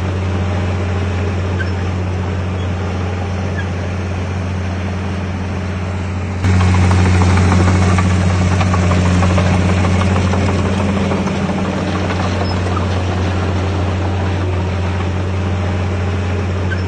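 Heavy diesel engine of earthmoving machinery running steadily with a deep drone. About six and a half seconds in it turns abruptly louder, then eases back down a few seconds later.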